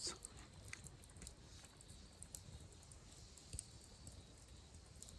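Near silence, with a few faint scattered ticks and crackles.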